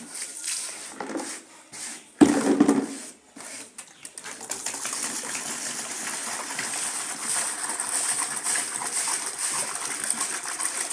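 Rinse water poured over a soapy carpet: a heavy splash about two seconds in, then a steady rush of pouring water.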